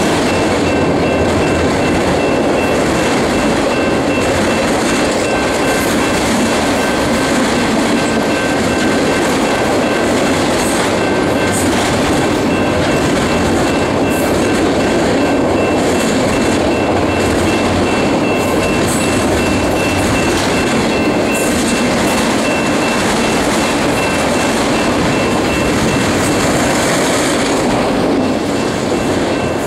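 Loaded autorack freight cars rolling past close by: a steady, loud rumble of steel wheels on rail, with clickety-clack from the rail joints and a thin, steady high ring running through it.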